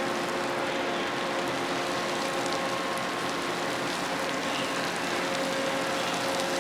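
Steady hum of ship machinery, several unchanging tones over an even hiss.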